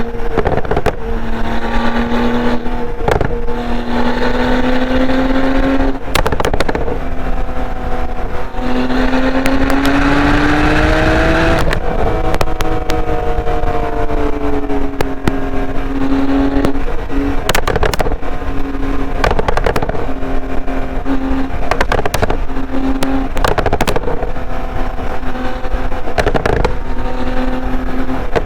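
A 2015 Porsche 911 Turbo S twin-turbo flat-six running through a SOUL Performance exhaust while driving. The engine note holds steady and climbs slowly at part throttle. It rises with a surge of hiss about nine to eleven seconds in, then drops suddenly at about twelve seconds as the driver shifts or lifts. Scattered sharp knocks sound throughout.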